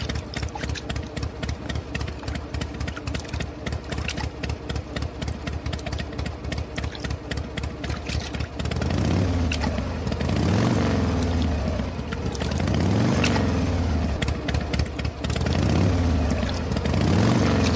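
Miniature model diesel engine running, with a rapid, even firing rattle. About halfway through it smooths out and its speed rises and falls in repeated swells every two to three seconds.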